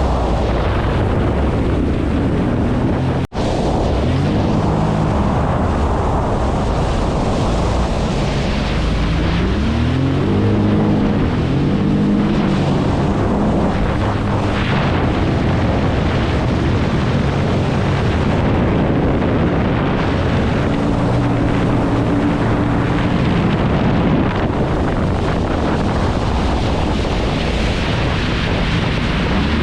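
1990 Kawasaki JS550 stand-up jet ski's 550 cc two-stroke twin running under way, its revs rising and falling, with water rushing and wind on the microphone. The sound cuts out for an instant about three seconds in.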